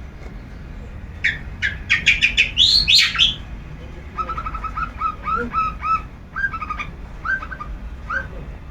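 Long-tailed shrike (cendet) singing: a loud burst of rapid, harsh, sweeping notes about a second in, then a string of shorter, lower, repeated notes, three or four a second.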